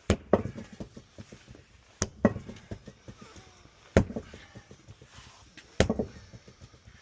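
Four heavy blows struck about two seconds apart, each followed by a short clatter, as the old tractor tyre's bead is hammered loose from the wheel rim.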